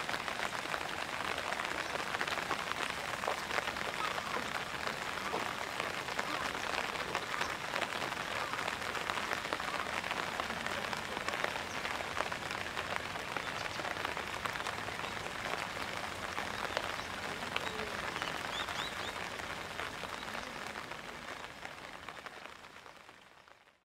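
Downpour of heavy rain, a steady hiss with many individual drops ticking close by. It fades out near the end.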